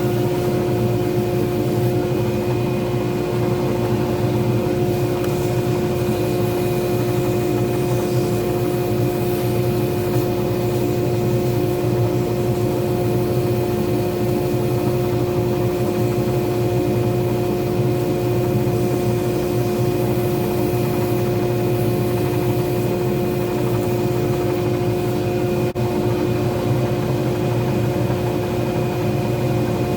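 Small pen-turning lathe running steadily at constant speed: an even motor hum with several fixed tones and no changes in speed.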